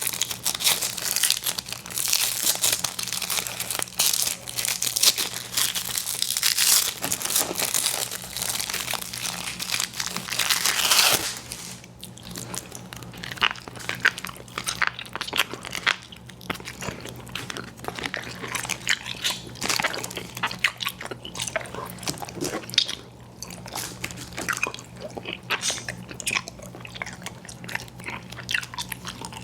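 Crinkling of candy packaging close to the microphone for about the first eleven seconds, then close-up chewing of chewy fruit candy: separate wet smacks and clicks of the mouth working the candy.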